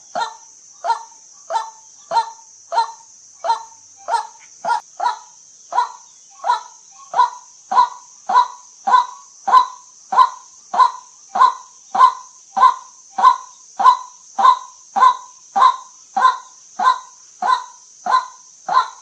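White-breasted waterhen calling, a long unbroken series of short, evenly repeated calls at about one and a half a second, over a steady high hiss.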